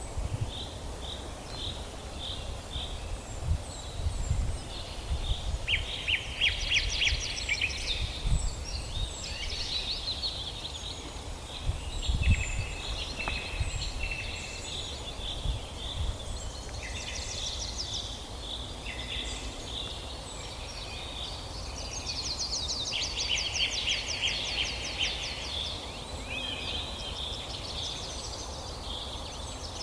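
Several wild birds singing at once: repeated chirps and fast buzzy trills overlapping throughout, over a low rumbling background with a few soft low thumps.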